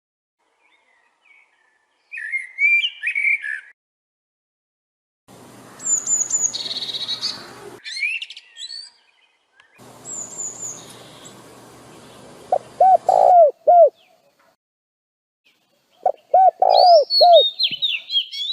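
Songbirds chirping and calling in separate bursts of high whistled notes, with quick runs of lower, repeated notes near the end. Two stretches carry a steady hiss that starts and stops abruptly.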